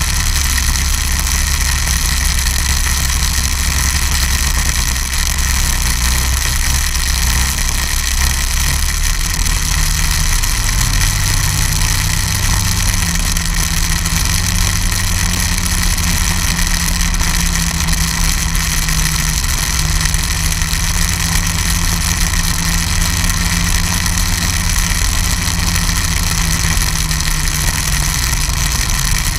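Snowmobile engine running steadily, its pitch stepping up about a third of the way through.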